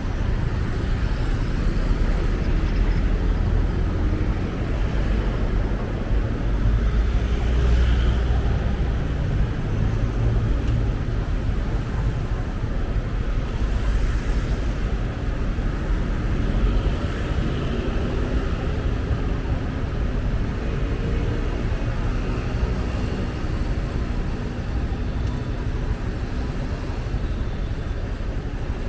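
Road noise from a moving motorcycle in city traffic: a steady low rumble of engine, wind and surrounding vehicles, with no clear single event standing out.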